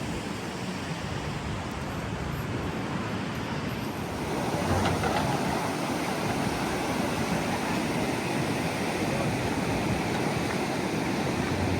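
Ocean surf breaking on the beach: a steady wash of waves, with wind on the microphone, getting louder about four seconds in.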